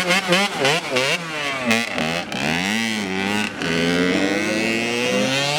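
Dirt bike engine blipped repeatedly, its pitch jumping up and falling back several times a second, then held at higher revs with the pitch rising slowly.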